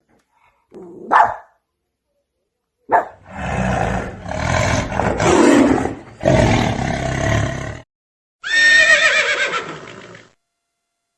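Several loud animal calls with silent gaps between them: a short rising call about a second in, a long harsh call in several parts, then a high pitched call near the end that falls in pitch.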